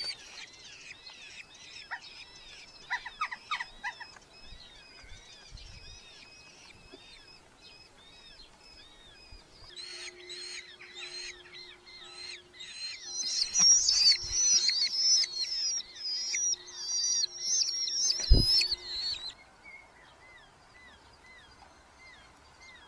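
Red-footed falcon chicks calling in a nest box: a string of short, repeated arched calls, swelling about ten seconds in into a loud, dense burst of shrill calls that stops suddenly near the end. A single sharp knock sounds just before the calls stop.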